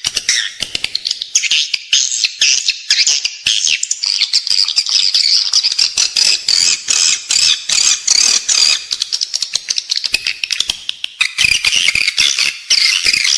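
Edible-nest swiftlet calls: a dense, continuous twittering of rapid chirps and clicks. This is the indoor swiftlet-house lure call, played to draw swiftlets in to nest.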